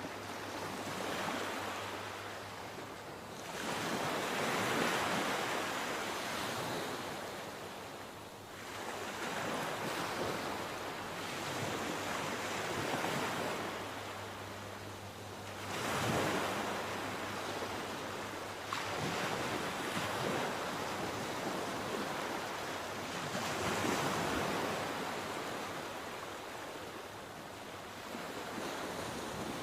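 Sea waves breaking and washing on the shore, the surf swelling and falling every few seconds.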